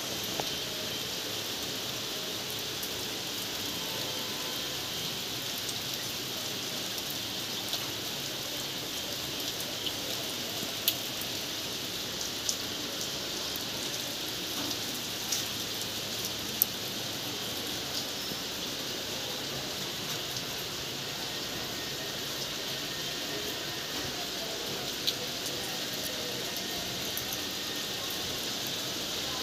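Steady rain falling as an even hiss, with a few sharper drip impacts standing out now and then.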